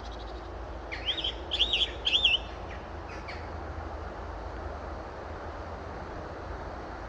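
A bird calling: three quick, warbling high notes about a second in, with a few fainter notes just after, over a steady low rumble of wind.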